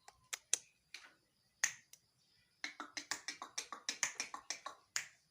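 Talking starling making sharp clicking sounds: a few spaced clicks, then a fast run of clicks, about eight a second, for over two seconds.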